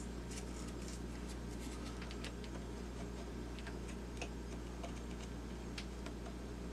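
Faint, irregular small clicks and scratches of a small hand tool working against small plastic gear parts, as black wear residue is cleaned off around a worn gear bushing, over a steady low hum.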